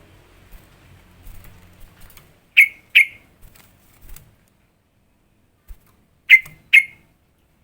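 Yellow-vented bulbul (trucukan) giving short, sharp call notes in two pairs, the second pair about three and a half seconds after the first.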